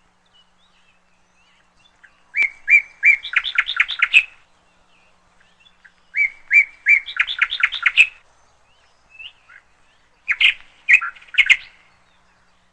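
A songbird singing the same short phrase three times, about four seconds apart: each phrase opens with a few clear chirps and runs into a quick string of sharper notes.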